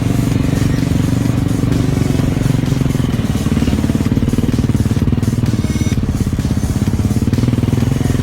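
Motorcycle engine running steadily, a constant low drone with no revving.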